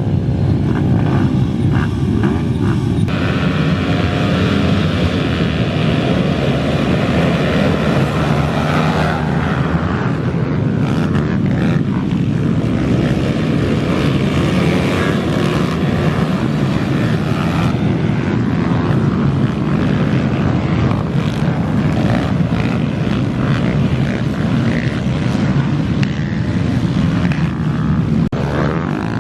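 Pit bike engines running hard in a race, with the upper range of the noise swelling sharply about three seconds in.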